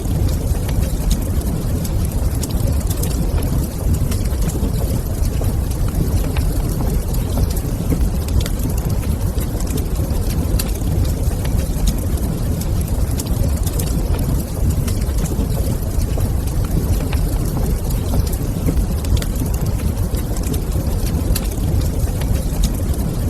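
Wood fire in a fireplace crackling, with scattered small pops and snaps over a steady low rumble.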